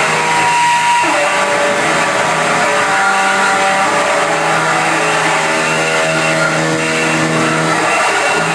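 Loud live electronic noise music: a dense wall of hiss with several held drone tones that shift in pitch, one sliding down about a second in.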